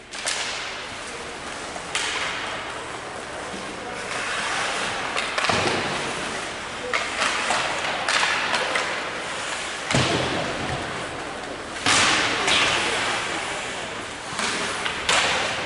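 Several sudden thuds and knocks, a few seconds apart, over a steady noisy background with voices.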